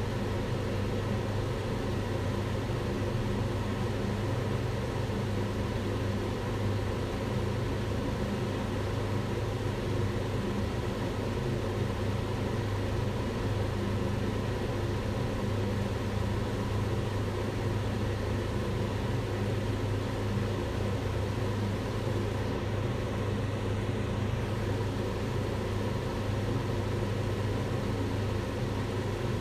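Kitchen range hood fan running steadily: a low motor hum with an even rush of air over it.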